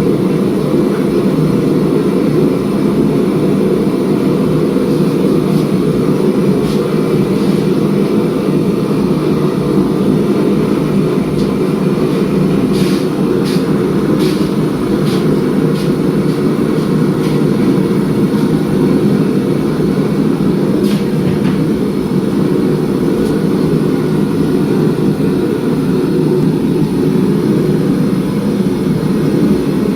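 Steady, loud running noise of forging equipment, with a few light metallic clicks about halfway through and again near the end.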